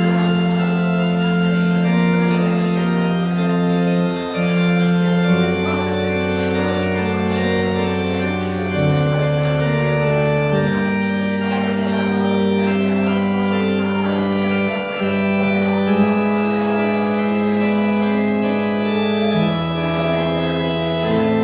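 Organ playing a postlude of slow, sustained chords over a moving bass line, the chords changing every one to three seconds.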